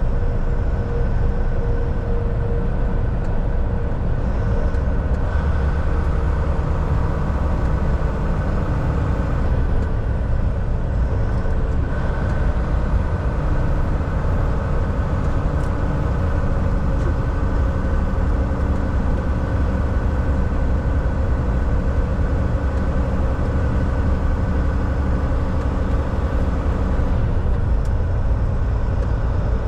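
Volvo VNL 760 semi truck driving at a steady speed, its diesel engine and road noise a constant low drone heard from the driver's seat.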